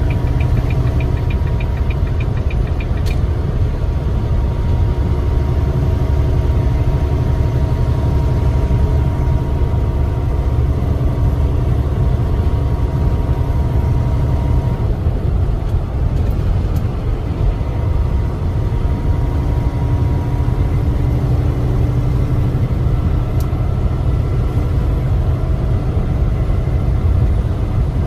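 Semi-truck's diesel engine running steadily with a deep, continuous drone, heard from inside the cab, with a quick run of faint ticks in the first few seconds.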